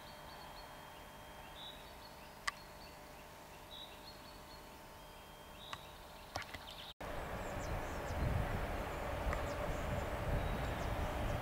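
Birds chirping, a short call repeating about once a second over faint background noise. After an abrupt cut about seven seconds in, the low rumble of an approaching train comes in louder and keeps building.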